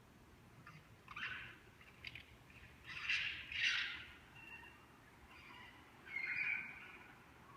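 A series of about five short, high animal calls, the loudest pair about three seconds in; what animal makes them is unknown.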